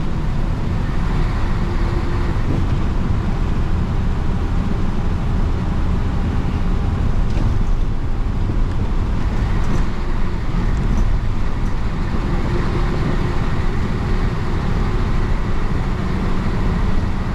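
1966 Isuzu BXD30 bonnet bus's DA640 six-cylinder diesel engine running steadily as the bus drives along, heard from inside the bus with road noise.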